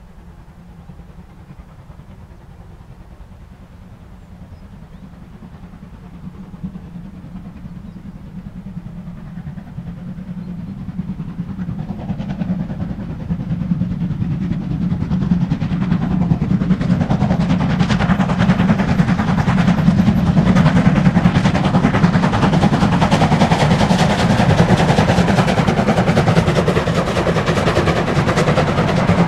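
Steam locomotive hauling a train, growing steadily louder over about eighteen seconds as it approaches, then staying loud as it works past.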